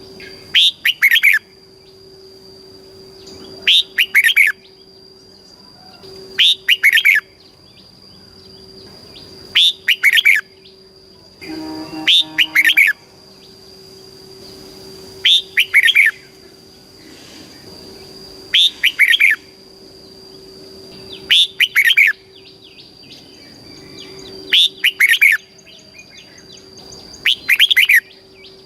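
Red-whiskered bulbul singing short, loud phrases about every three seconds, ten in all, each phrase in two quick parts. A faint steady high whine runs underneath.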